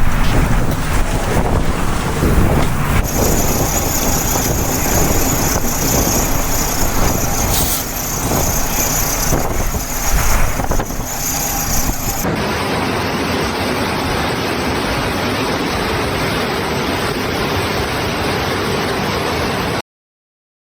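Loud, steady noise of a storm's strong wind and heavy rain, with heavy low rumble. Its character changes abruptly about 3 and 12 seconds in, and it cuts off suddenly near the end.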